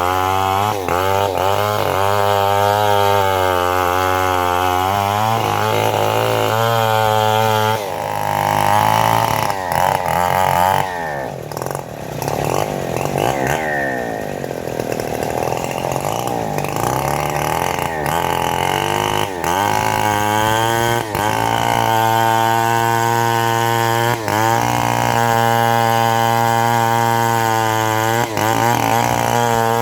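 Engine-driven saw cutting mahogany, running at a steady pitch, then sagging and wavering for several seconds in the middle as the engine bogs under load, before settling back to a steady run.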